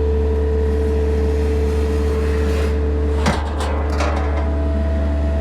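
An engine runs steadily with a low hum. About three seconds in there is a sharp metallic clank and a few lighter knocks, then the engine's note steps up slightly.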